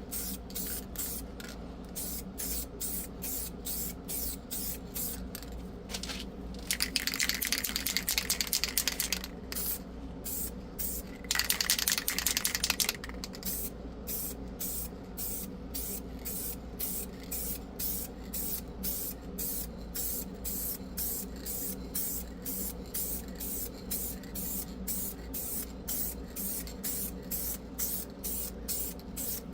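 Paint being sprayed in short, quick bursts about twice a second, with two longer sprays of a couple of seconds each, about seven and eleven seconds in, over a steady low hum.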